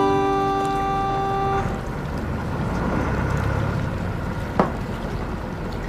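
Harmonica-like music fades out about a second and a half in, leaving a motorboat running steadily across the sea, with engine rumble and water noise. A single short knock comes about four and a half seconds in.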